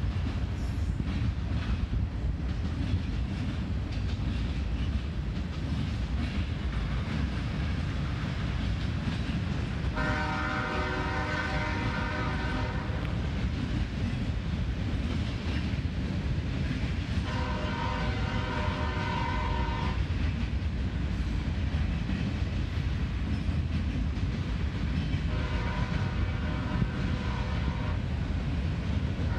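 CSX manifest freight train rolling by with a steady low rumble of its cars on the rails. A diesel locomotive horn sounds three long blasts of about three seconds each, spaced several seconds apart, and starts a fourth near the end.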